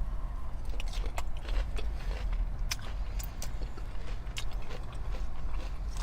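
A person chewing food close to the microphone: scattered, irregular mouth clicks and smacks over a steady low hum.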